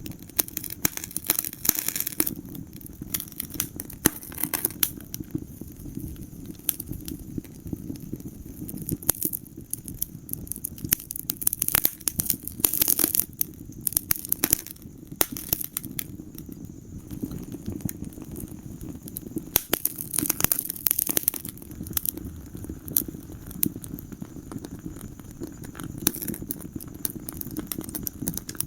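Wood fire crackling in a fireplace: a steady low rumble of flames with frequent sharp pops and snaps, some coming in short flurries.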